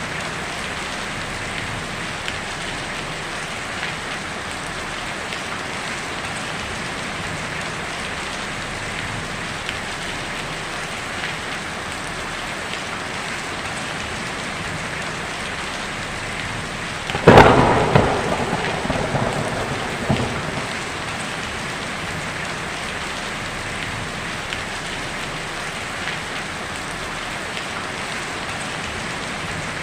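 Heavy rain drumming steadily on a tin roof, with a sharp thunderclap a little past halfway that rumbles away over about three seconds.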